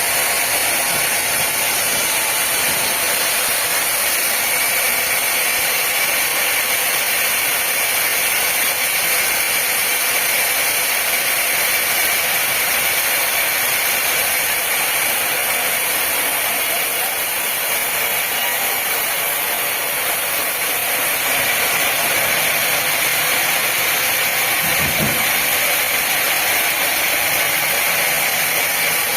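Woodworking machinery running steadily: a constant high hiss with a faint steady whine, easing slightly for a few seconds in the middle, with a short low thump near the end.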